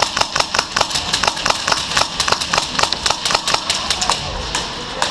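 Airsoft gun firing a rapid, evenly spaced string of shots, about six or seven a second, breaking off about three and a half seconds in, with a few scattered shots after.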